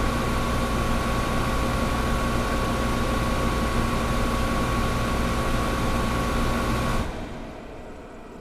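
Old window air conditioner running steadily: a broad whoosh with a low rumble and a few steady hums and whines. About seven seconds in the sound drops away abruptly, leaving a much fainter hiss that keeps sinking.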